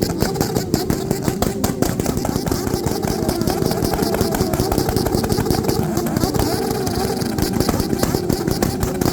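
Motorcycle engines running and revving at a crowded campsite, with many short sharp pops and cracks throughout and voices in the background.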